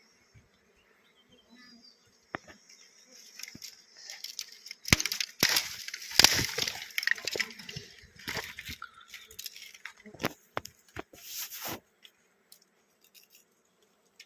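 Irregular rustling and crackling with sharp clicks and snaps, loudest from about five to twelve seconds in, over a faint high bee buzz at the start.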